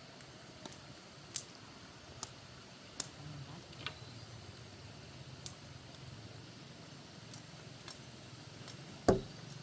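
Scattered sharp snaps and knocks of wood being broken and cut, spaced a second or so apart, then one heavy thump near the end.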